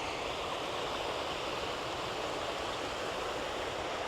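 Steady rush of running water, an even noise with no breaks or single events.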